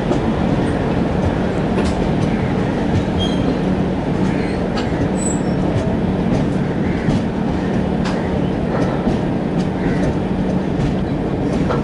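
Rajdhani Express train running along the track: a steady loud rumble with a constant low hum and scattered clicks and knocks from the wheels and rails.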